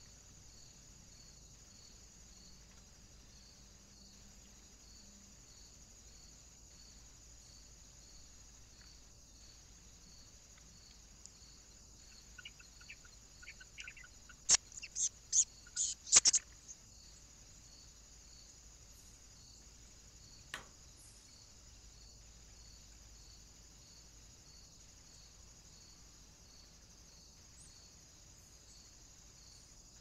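Steady high insect chirring with a regular pulse throughout. About halfway through, a bird gives a few quieter chirps and then a quick series of about six loud, sharp calls, with one more short call a few seconds later.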